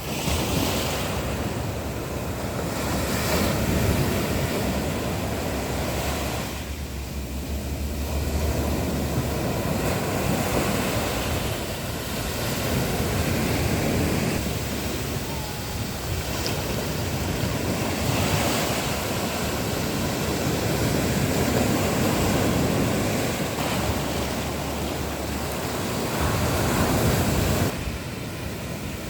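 Sea waves breaking on a beach: a continuous surf wash that swells and eases every few seconds. Wind buffets the microphone at times.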